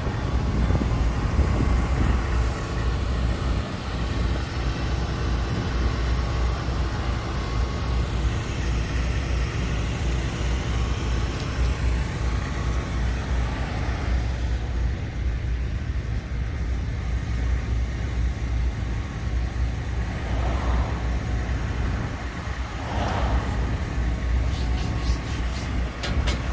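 Steady low engine drone with street noise around it; a few short brighter sounds come in near the end.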